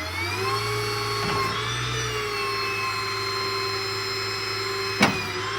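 Tow truck's loading machinery running with a steady motor whine that settles in pitch about half a second in, with a sharp click near the end.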